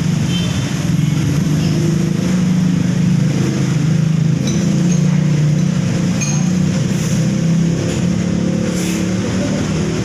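Steady low engine rumble of road traffic, swelling a little in the middle, with a couple of faint high clinks.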